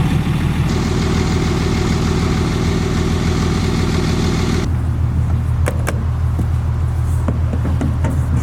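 Electric camper jacks whirring as a truck camper is raised, over a steady low engine-like hum; the whirring starts about a second in and cuts off suddenly around five seconds, followed by a few clicks.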